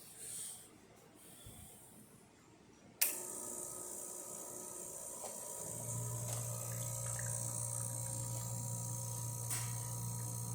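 Gaggia Classic espresso machine's vibratory pump switching on about three seconds in and running steadily as it pulls an espresso shot. Its low hum grows stronger a few seconds later, as the pump comes under load.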